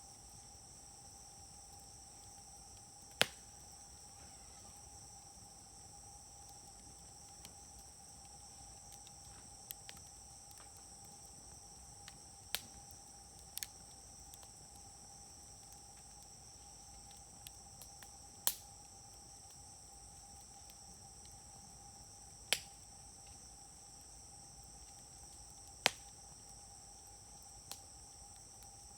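Firewood burning in an open fire grill, popping sharply every few seconds: about six loud pops and several fainter ticks over a quiet, low fire. A steady high-pitched hum runs underneath.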